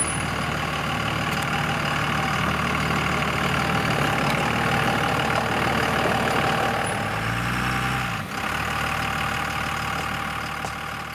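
Full-size Dodge pickup's diesel engine running at low speed under a truck camper, a steady hum with a brief change in engine pitch a little past halfway.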